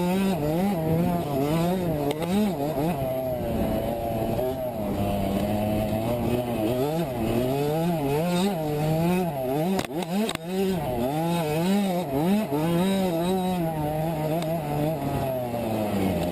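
A 65cc two-stroke motocross bike engine revving up and down again and again as the throttle opens and closes, with two sharp clicks about ten seconds in.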